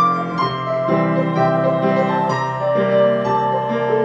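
Piano playing a short instrumental link between sung lines of a slow gospel hymn, a run of notes over held bass chords, with no voice.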